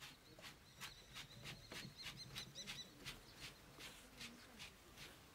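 Near silence outdoors: faint small-bird chirping, a wavering high twitter in the middle, over a string of quiet short ticks, a few a second.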